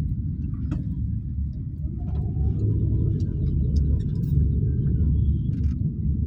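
Toyota Axio driving through city traffic: a steady low road-and-engine rumble that gets a little louder about two and a half seconds in.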